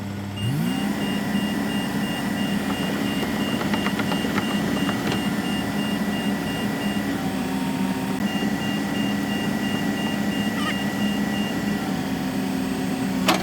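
Tracked excavator's diesel engine picking up speed about half a second in, then running steadily, while a high-pitched travel alarm beeps rapidly in two runs with a short break between them. The alarm means the machine is tracking, driving the freshly rebuilt sprocket.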